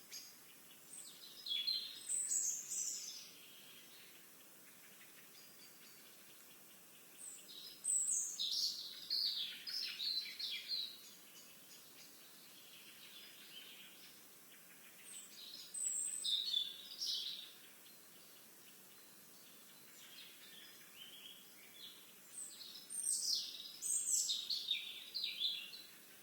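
A songbird singing a quick, varied phrase of high notes and trills four times, about every seven or eight seconds.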